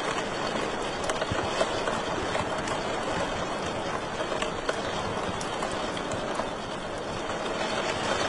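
Wood fire crackling in a fireplace: a steady rushing hiss with frequent small, sharp pops and snaps scattered through it.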